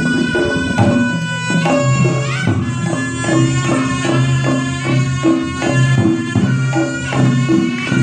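Reog gamelan accompaniment: a shrill, reedy slompret shawm playing a sliding melody over a steady, repeating beat of drums and tuned gongs.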